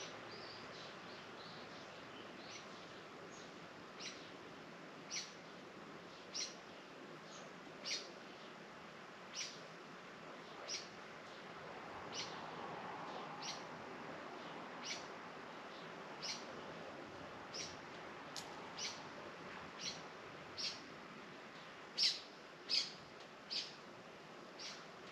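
A bird giving a short, high, down-slurred call over and over, about once a second, louder near the end, over a faint steady outdoor hiss.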